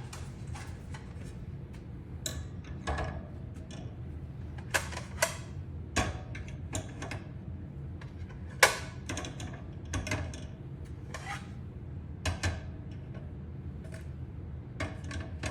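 Irregular clicks and knocks of a dish drying rack's metal and plastic parts being handled and fitted together, about a dozen, the loudest a little past halfway, over a low steady hum.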